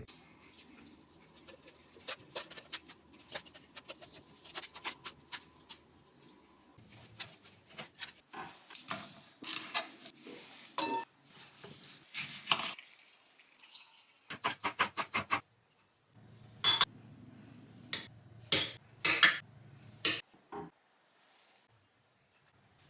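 Kitchen utensils clinking and knocking against dishes and bowls in a string of separate taps, with a quick run of about eight taps two-thirds of the way through.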